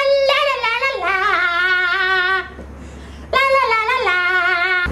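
A solo voice singing unaccompanied, holding wavering notes in two phrases with a short break a little past two seconds in. Each phrase steps down in pitch.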